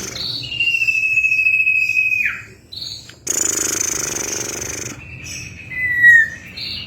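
Common iora (cipoh) calling: a long, steady, high whistle that drops sharply at its end, flanked by short higher notes. About three seconds in comes a burst of harsh chatter, followed near the end by a shorter falling whistle.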